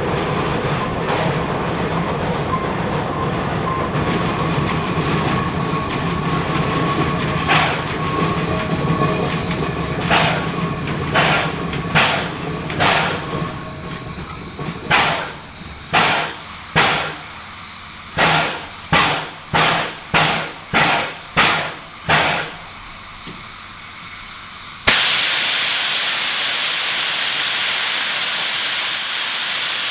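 Geared steam locomotive working: a steady rumble at first, then separate exhaust chuffs that stand out one by one, roughly one a second. About 25 seconds in, a sudden loud hiss of steam starts and keeps going.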